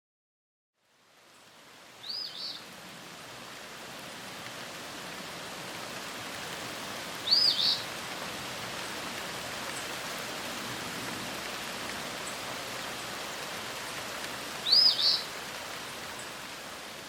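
Steady hiss of outdoor ambience fading in, with a bird calling three times, each call a short high two-part chirp, several seconds apart.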